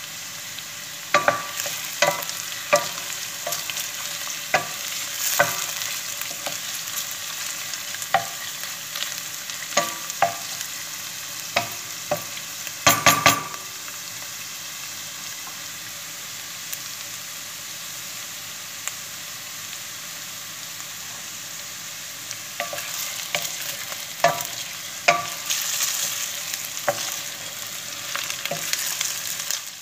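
Beef cubes and onions sizzling in oil in a stainless steel pot while a wooden spoon stirs them, knocking and scraping against the pot. The knocks come in a dense cluster about halfway through. There is a stretch of sizzling with little stirring before the knocking picks up again near the end.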